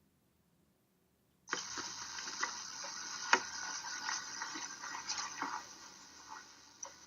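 Water running, a steady splashing hiss that starts abruptly about a second and a half in, with a few sharp clicks and knocks over it.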